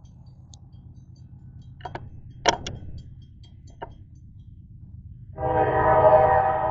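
Low rumble with a few faint clicks, then about five seconds in a locomotive's air horn starts sounding, a loud chord held on.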